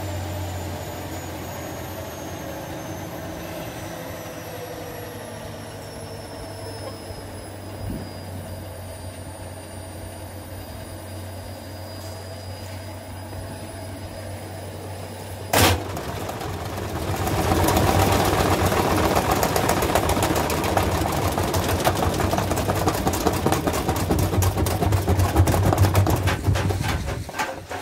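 Washing machine running with a steady hum and a high whine that falls slowly in pitch. About halfway through there is a sharp click, then loud, continuous rattling and clattering, which cuts off abruptly near the end.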